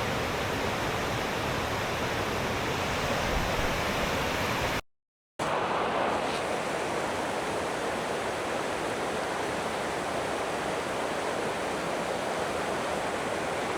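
Steady rush of a waterfall cascade. The sound cuts out completely for about half a second about five seconds in, then comes back slightly duller.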